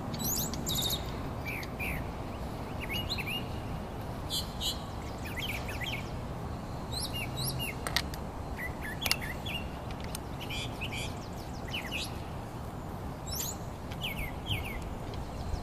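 Small birds chirping and tweeting in short, quick calls throughout, over a steady low background rumble, with a couple of sharp clicks about halfway through.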